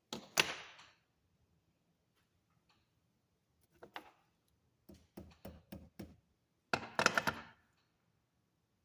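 Hand tools and metal being handled on a workbench: separate knocks and clatter, with a run of about five quick knocks in the middle and a denser clatter near the end.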